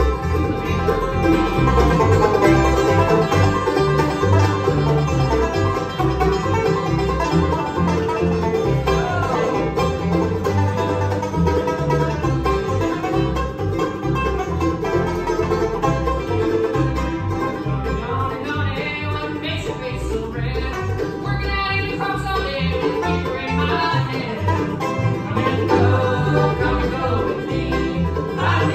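Bluegrass band playing an instrumental, the banjo picking fast rolls up front over guitar and a steady bass beat.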